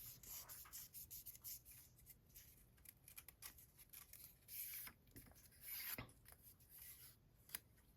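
Faint rustling and rubbing of paper being handled, with scattered light taps and a couple of slightly louder swishes around the middle.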